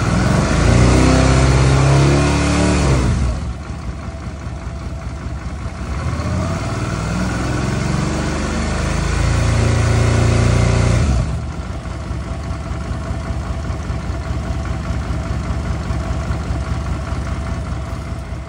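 Suzuki DL650 V-Strom's V-twin engine revved and held up twice, dropping back to idle after about three seconds and again about eleven seconds in, then idling. It is being run as a charging test after new regulator-to-alternator connectors were fitted.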